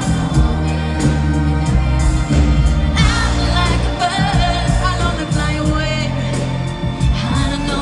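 Live pop music through a festival sound system: a band with heavy bass and drums, with a lead vocal line that comes in strongly about three seconds in, its pitch wavering.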